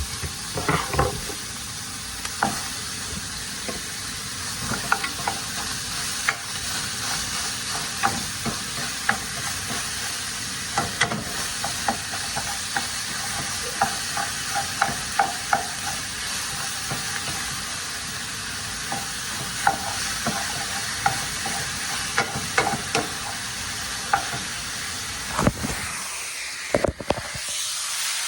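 Seasoned meat sizzling steadily as it browns in a greased pan, with a utensil stirring and repeatedly knocking and scraping against the pan.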